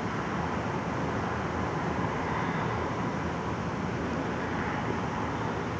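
Steady, even hum of distant city traffic, with no firework bangs in it.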